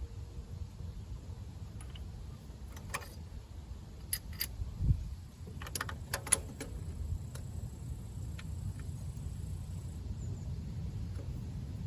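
Scattered sharp metallic clicks and clinks of hand tools and small metal parts being handled, with a cluster of them about six seconds in, over a low steady rumble; a single dull thump comes about five seconds in.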